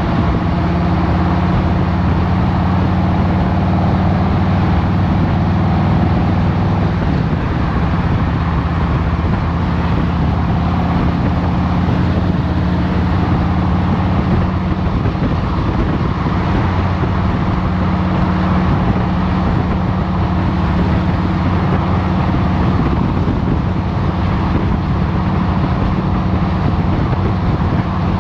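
Harley-Davidson Road Glide Special's Milwaukee-Eight 114 V-twin running steadily at an even engine speed, with no revving or gear changes.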